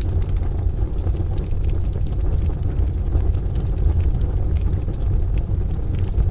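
Crackling wood stove fire, sharp scattered pops and snaps, over a steady deep rumble of rain and distant thunder.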